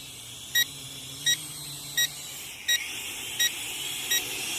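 A toy quadcopter's remote controller beeps a short high warning tone about every 0.7 seconds, the low-battery alarm of a nearly flat drone battery. The faint whine of the drone's motors runs underneath.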